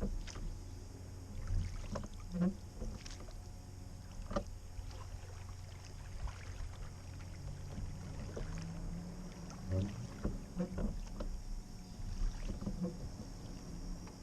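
Oars working a 15-foot wooden skiff through calm creek water, with irregular knocks and water strokes from the oars.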